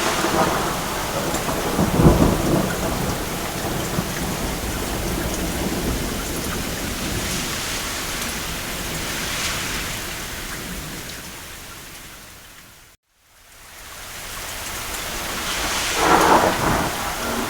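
Steady rain with distant thunder rumbling, one rumble about two seconds in and another near the end. Around two thirds of the way through, the whole sound fades out to a moment of silence and fades back in, like a loop seam in the track.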